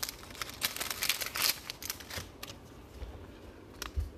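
Trading cards and foil card packs being handled: quick crisp rustles and clicks, busiest in the first two and a half seconds, then sparser.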